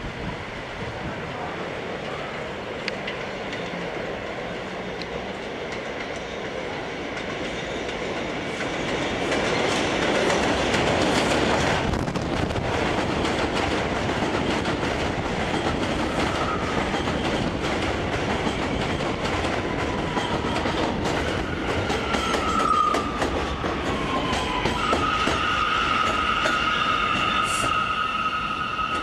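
R179 subway train running on the rails, wheels clattering over the track and growing louder about a third of the way in. Near the end a high wheel squeal sets in, after a tone that glides downward.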